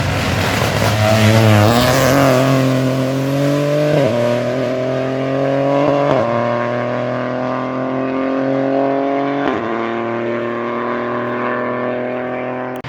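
Rally car engine at full throttle, accelerating through the gears. Its pitch climbs steadily, broken by quick upshifts about four, six and nine and a half seconds in. The sound cuts off suddenly near the end.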